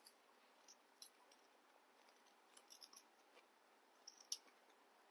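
Near silence with a few faint, scattered short clicks and ticks.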